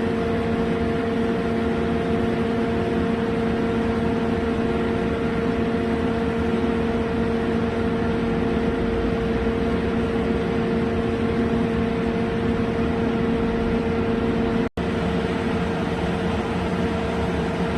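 Mitsubishi MAF-280/200-NC horizontal floor-type CNC boring mill running: a steady machine hum with several steady tones, cutting out for an instant near the end.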